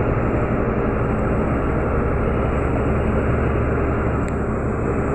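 Meteor hydrofoil under way at speed, heard from aboard: its diesel engines and the rushing water make a loud, steady din with a low engine hum underneath.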